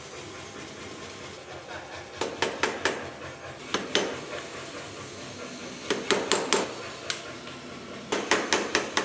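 Hammer blows on hot steel at an anvil, in short runs of several quick strikes with pauses between.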